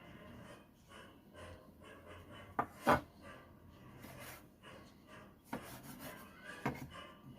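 Kitchen knife scraping and knocking on a cutting board while tomatoes are seeded, with a few sharp knocks. The loudest knocks come about three seconds in and again near the end.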